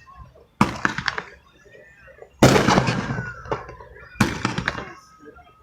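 Three firework bursts, evenly spaced nearly two seconds apart. Each is a sudden bang followed by crackling that fades over about a second.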